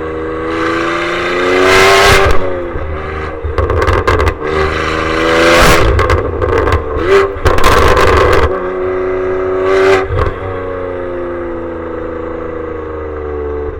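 BMW G87 M2's twin-turbo inline-six with its exhaust valves open, accelerating through the gears of its six-speed manual: the revs climb, drop at each upshift and climb again, then hold fairly steady over the last few seconds. Very loud, with the recording clipping harshly at the loudest peaks.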